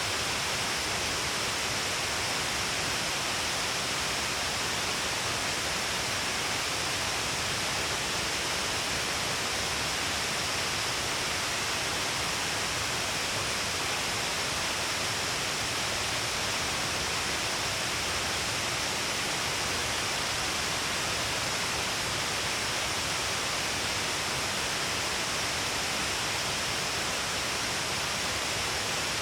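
Shiraito Falls: many streams of water pouring down a long cliff face, making a steady, hissing rush of falling and splashing water.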